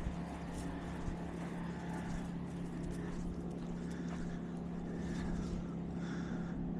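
A steady, low engine hum with a rumble underneath, with a few faint clicks.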